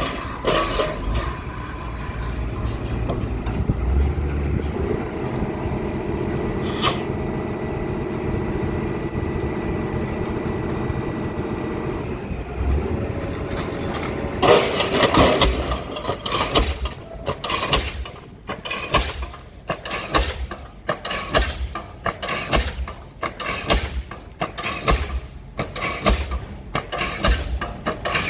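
Piling rig's engine running steadily, then a diesel pile hammer starts up about halfway through and strikes a pile in a regular run of sharp blows, somewhat more than one a second.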